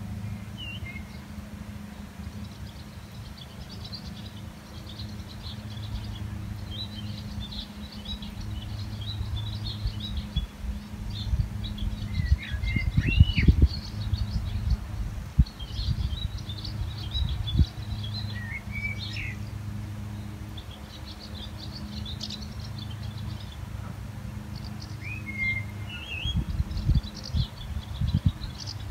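Wild birds twittering and chirping, with a few louder slurred whistles now and then, over a steady low hum. Low rumbling bursts come about halfway in and again near the end.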